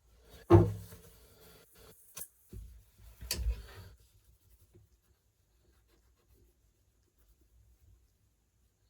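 Handling noise during shower-tray siliconing: a sharp knock about half a second in, a click, then a short patch of rubbing and scraping.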